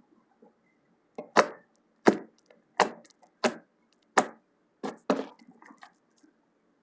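Slime being smashed: a steady run of about six sharp slaps, roughly one and a half a second.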